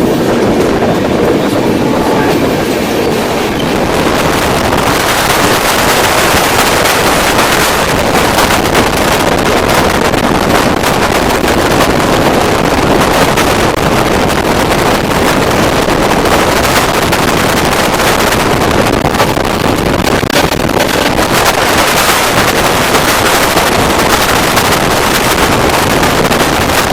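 Express passenger train running at speed, heard from aboard: a loud, steady rumble and rush of wheels on rails and passing air, which grows brighter about five seconds in.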